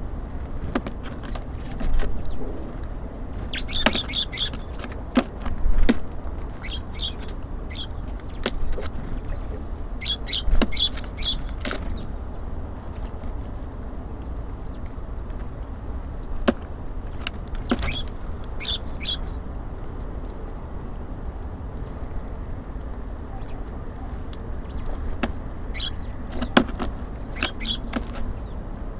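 Small songbirds at a bird feeder giving short high chirps in scattered clusters, with sharp taps between them over a steady low rumble.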